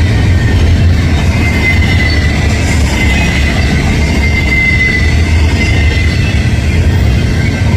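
Double-stack intermodal freight train rolling past, a loud steady rumble of wheels on rail with a thin high wheel squeal running through it.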